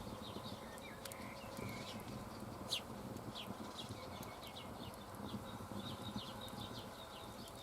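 Small birds chirping in short, repeated high notes, faint against a steady outdoor background.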